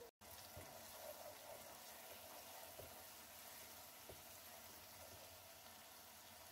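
Faint sizzle of chopped onions and ground spices frying in oil in a pot, with a couple of light taps from the stirring spatula.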